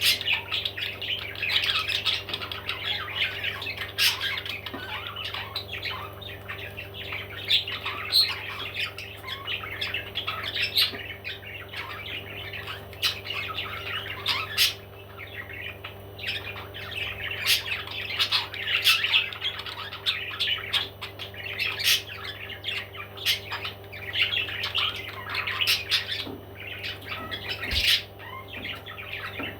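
Parrots squawking and chattering without pause, many short calls overlapping, with a steady low hum underneath.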